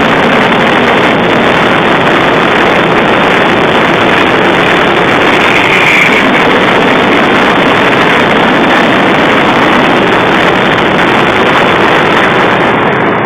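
Daytime firework barrage, its explosions merging into one continuous, very loud roar that cuts off suddenly at the very end.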